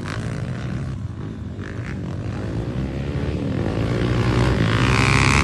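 Off-road motorcycle engine running, with a steady drone that grows louder toward the end.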